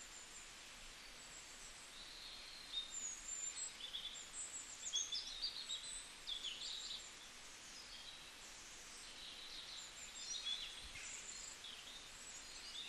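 Birds chirping: many short, high calls and quick pitch slides, thickest from about three seconds in and again near the end, over a faint steady hiss.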